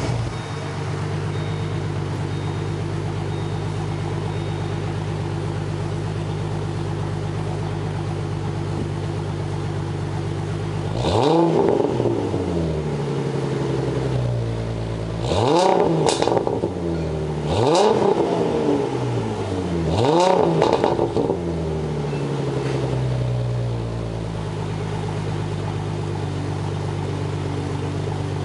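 Ford Mustang 4.0 L V6 with a Pypes true-dual exhaust (X-pipe, Street Pro chambered mufflers) idling steadily, then revved four times in quick blips, each rising and falling back to idle, with another rev starting at the very end. The owner finds the exhaust a little poppy.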